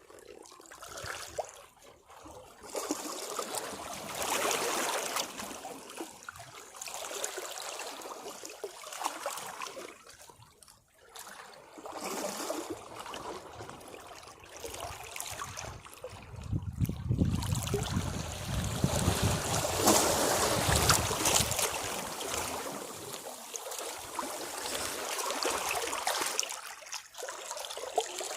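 Sea waves washing against rocks in surges that swell and fade. The largest and deepest surge comes a little past halfway.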